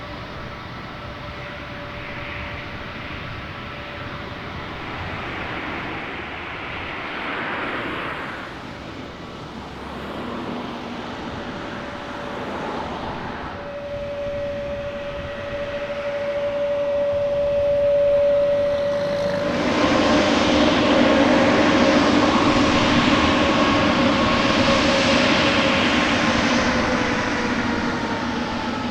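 Jet airliner's engines whining with a steady rushing noise, growing much louder about two-thirds of the way through, then the whine slides down in pitch near the end as the aircraft passes.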